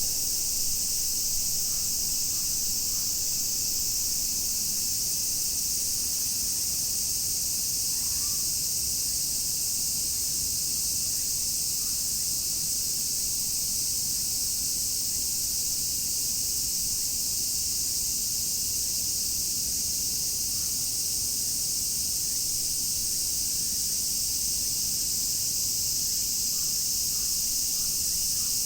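Dense chorus of many cicadas singing at once: a continuous, shrill high-pitched buzz that stays steady without a break.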